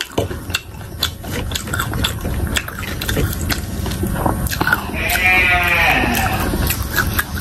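Close-miked crunching and wet mouth sounds of chewing fried pakoras, with a drawn-out closed-mouth "mmm" that rises and falls about five seconds in.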